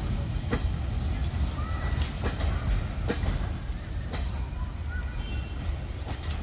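Container freight train's wagons and brake van rolling away along the track: a steady low rumble with irregular sharp clicks of wheels over rail joints, fading a little as the train recedes.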